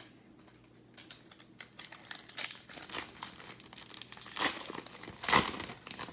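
Trading-card pack wrapper being torn open and crinkled by hand, a run of sharp crackles starting about a second in, loudest near the end.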